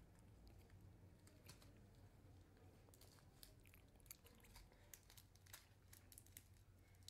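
Near silence: faint room tone with scattered light clicks and rustles.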